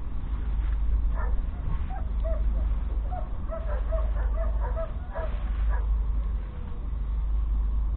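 Track Marshall AM 140 crawler tractor's 11.1-litre six-cylinder diesel engine running with a steady low rumble. From about two seconds in, a quick run of short high-pitched yelps or squeaks sounds over it for about three seconds.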